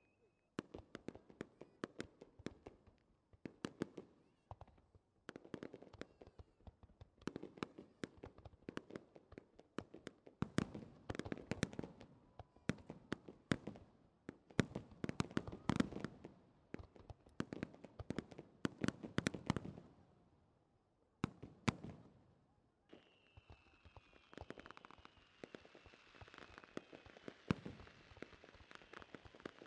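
Starmine fireworks barrage: rapid volleys of shell bursts and bangs in dense clusters, with brief gaps between them. About 23 s in, after a short lull, a new volley starts with a steady hiss, a faint falling whistle and scattered pops.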